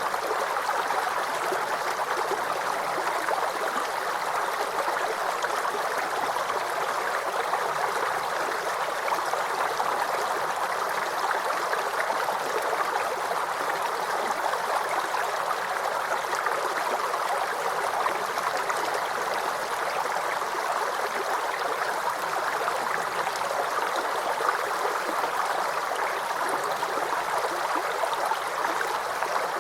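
Small creek flowing over stones, babbling and gurgling steadily.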